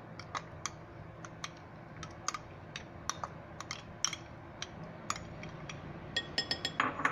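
Scattered light clicks and taps of a spoon against a bowl as curd is spooned into the cake mix, with a quick run of ringing clinks near the end.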